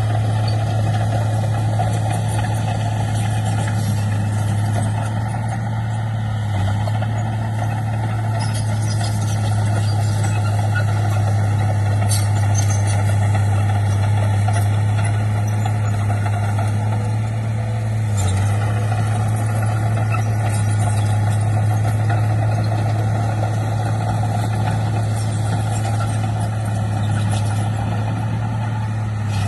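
A heavy construction machine's diesel engine runs at a steady speed with a low drone, dipping briefly twice: about six seconds in and about eighteen seconds in.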